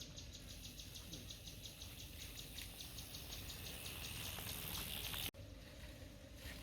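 Insects calling: a rapid, even, high pulsing of about seven beats a second, joined by a rising hiss that builds over several seconds and then cuts off abruptly about five seconds in.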